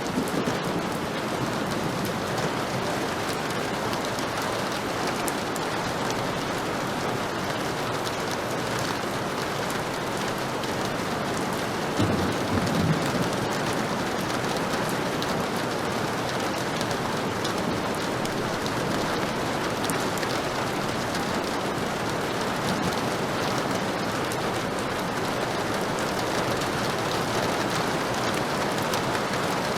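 Heavy rain falling steadily, with a brief low rumble about twelve seconds in.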